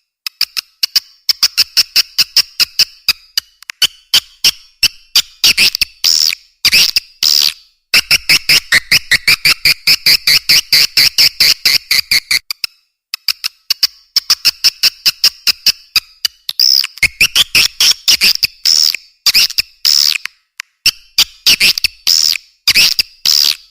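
Swiftlet calls played as a farmers' lure: fast runs of short, sharp chirping clicks, several a second and densest in the middle, with a brief break just before halfway through the second half. Toward the end the clicks give way to louder, separate drawn-out chirps about once a second.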